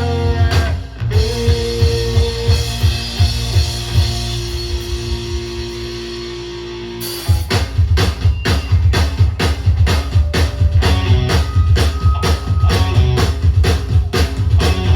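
Live rock band playing an instrumental passage with electric guitar, bass and drum kit. For the first seven seconds the guitars hold ringing chords over lighter drumming, then the full band kicks into a fast driving beat.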